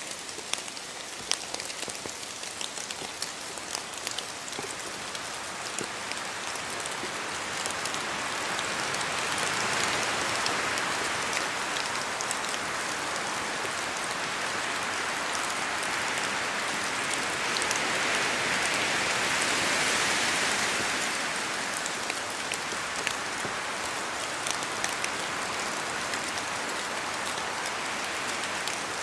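Rain falling on forest foliage, with many separate drops pattering through a steady hiss. The rush swells twice, about a third of the way in and again past the middle, as gusts of wind move through the trees.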